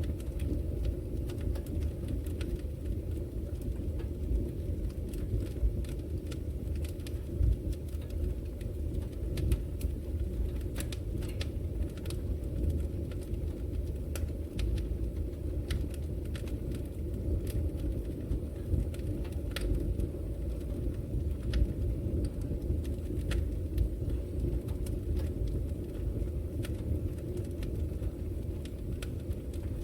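Fire burning in a fireplace: a steady low rumble with frequent sharp crackles and pops scattered irregularly throughout.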